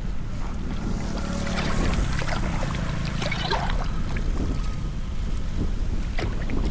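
Floodwater rushing and gurgling, with scattered splashes, under a steady low rumble of wind on the microphone.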